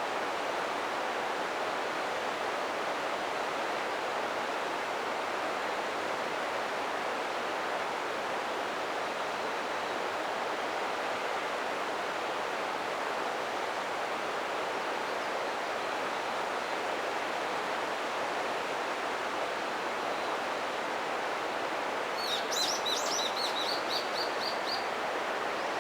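Steady rushing of the Ota River's flowing water. Near the end a small bird gives a quick run of about ten high chirps.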